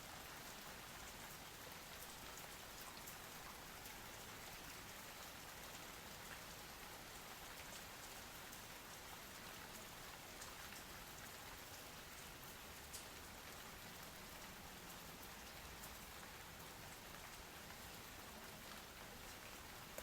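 Steady, faint rain falling on a surface: an even hiss with scattered sharp drop ticks.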